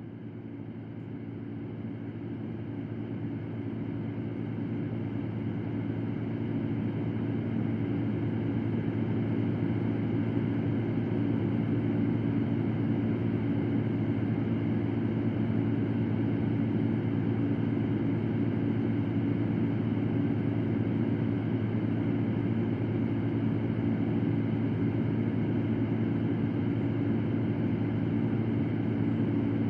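Electric fan running with a steady whooshing hum. It fades in over the first several seconds, then holds at an even level.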